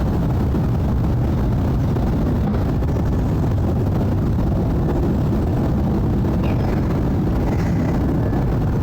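Jet airliner flying overhead after takeoff: a steady, low engine roar.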